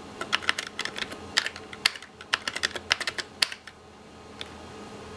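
Computer keyboard keys clicking in a quick run of presses, which stop about three and a half seconds in.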